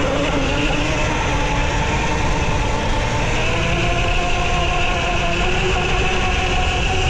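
Dirt bike motor running, its pitch rising and falling a little with speed, over a heavy low rumble.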